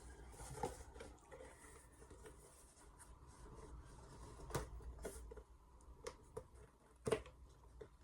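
Faint handling noises as a knife is unwrapped from its packaging: light rubbing and scattered taps, with sharper clicks about four and a half and seven seconds in.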